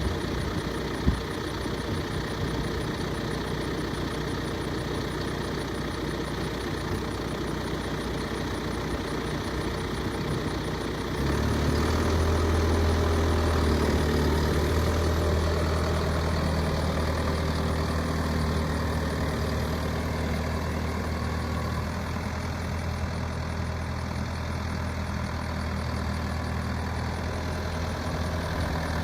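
The four-cylinder diesel engine of a John Deere 6120R tractor idles steadily, with one sharp click about a second in. About eleven seconds in, the engine steps up to a higher, louder speed and holds there.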